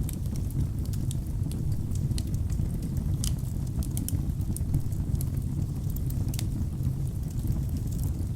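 Wood fire burning in a fireplace: a steady low rumble of flames with many scattered sharp crackles and pops from the burning logs.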